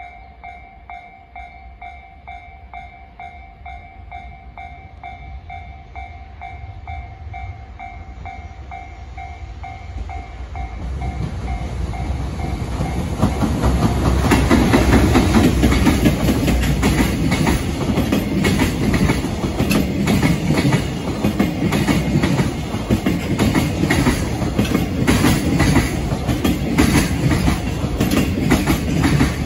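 A level crossing warning bell rings in a steady pulsing rhythm as a JR Freight EF210 electric locomotive approaches, growing louder. About halfway through, the locomotive passes close by. Its container wagons follow with a loud rumble and rapid clickety-clack of wheels over the rail joints.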